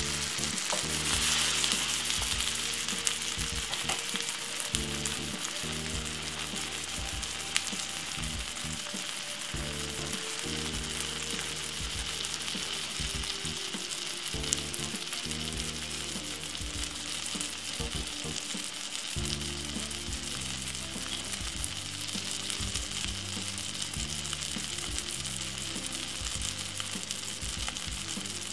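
A folded egg omelette frying in oil in a non-stick pan, the oil sizzling steadily around it. Low background music plays underneath.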